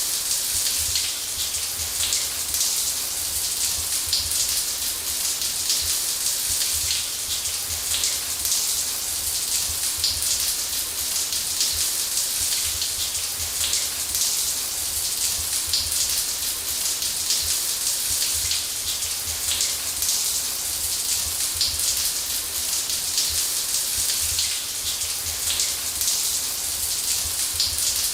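Shower water running steadily and spattering, a dense hiss with many small patters.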